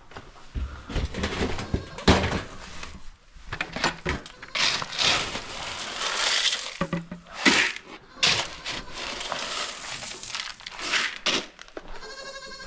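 Grain feed being scooped and poured into feed pans: a run of irregular pouring rushes and knocks. A goat bleats near the end.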